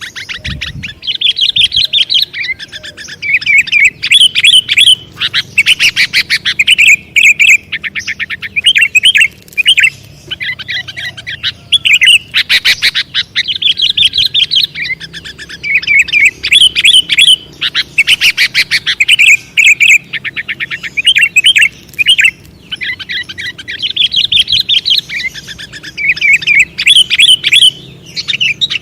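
Sooty-headed bulbul (kutilang) song: loud, quick chirping phrases repeated over and over with short pauses between them.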